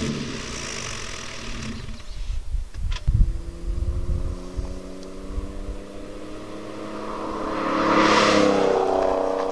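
Audi A5 exhaust with the rear mufflers and resonators removed, the engine note rising slowly under throttle with a low rumble early on. It is loudest about eight seconds in, then drops away near the end.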